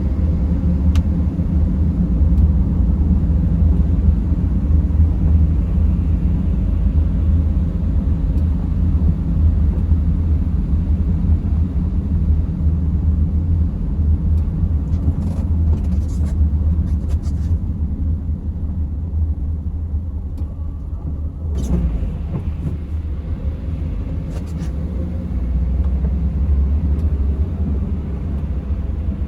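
Steady low rumble of road and engine noise from inside a moving car, with a few brief higher-pitched scrapes or clicks around the middle.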